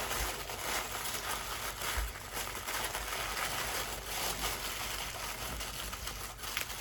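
Wrapping crinkling and rustling as a well-wrapped item is unwrapped by hand.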